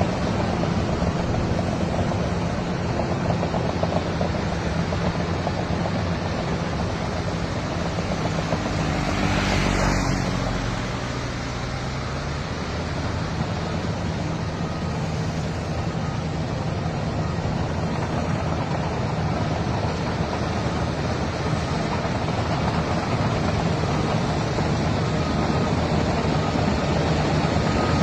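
Diesel engine of heavy earthmoving machinery running steadily at work, with a brief louder surge about a third of the way in.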